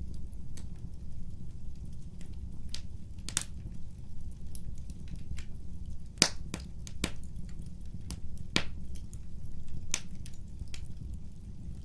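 Wood fire crackling: irregular sharp pops and snaps of burning wood, the loudest about halfway through, over a steady low rumble.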